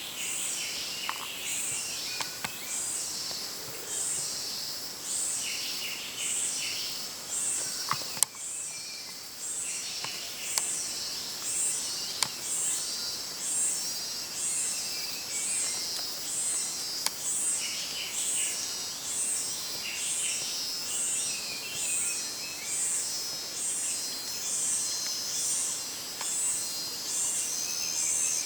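Jungle insects droning in high, evenly repeating pulses a little more than once a second, with birds chirping below them. Now and then there is a sharp click, the loudest about eight seconds in.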